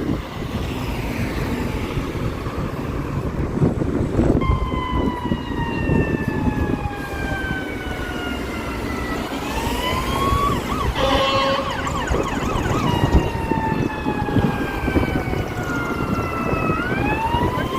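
Fire apparatus siren wailing, its pitch sliding slowly down and then sweeping back up, with a quicker warble about halfway through, over a steady low rumble of engine and traffic noise.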